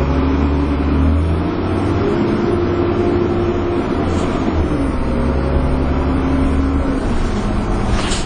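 Dennis Trident 2 double-decker bus's diesel engine heard from on board, pulling hard with its hoover whine and thrash. The engine note shifts pitch several times, dropping around four seconds in and then holding, as the bus works through its gears.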